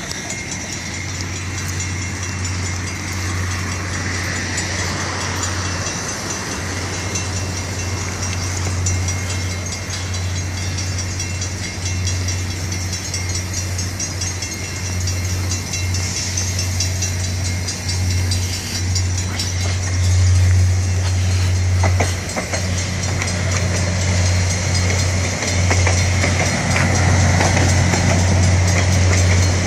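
Via Rail passenger train rolling slowly in reverse, a steady low drone with a rumble that grows louder over the last third as the coaches come alongside. A level-crossing warning bell rings steadily over it.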